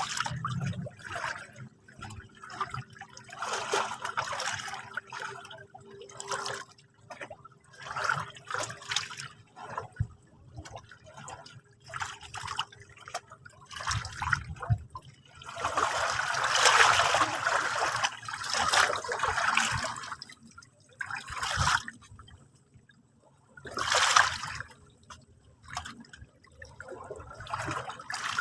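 Sea water lapping and splashing at the shore in short, irregular surges, with a bigger, louder wash lasting several seconds a little past the middle and another brief one near the end.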